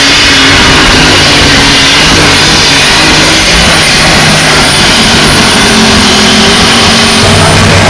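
Light super stock pulling tractor engine running hard at full power, very loud, its pitch wavering up and down. About seven seconds in the note turns deeper and steadier.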